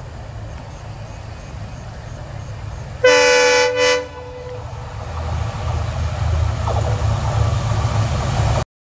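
A train horn sounds one blast about a second long, about three seconds in, over the steady low rumble of a running train. The rumble grows louder from about five seconds in and cuts off abruptly near the end.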